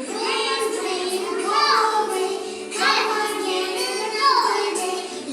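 A child singing over background music.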